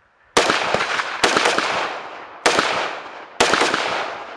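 Four gunshots from a firearm fired roughly a second apart, each followed by a long echoing tail that fades before the next shot.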